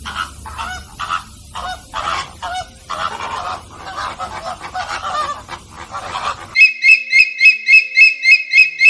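Birds calling: a run of harsh, repeated honk-like calls, then a sudden cut about two-thirds in to a loud, fast series of high whistled notes at one pitch, about five a second.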